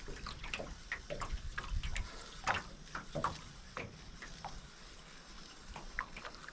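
Water splashing and lapping close to the microphone, an irregular run of small splashes and drips, with a low rumble of water movement in the first couple of seconds.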